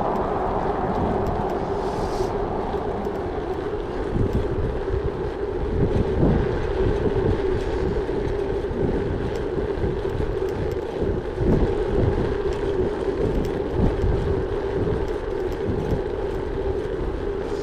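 Gravel bike riding: the tyres roll with a steady hum, and wind buffets the microphone in repeated gusts.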